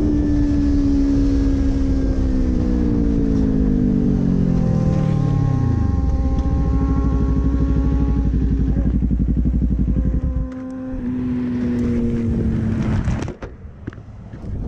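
Motorcycle engine winding down, its note falling steadily as the bike slows from speed, then running at a low steady idle; the engine note cuts off suddenly near the end.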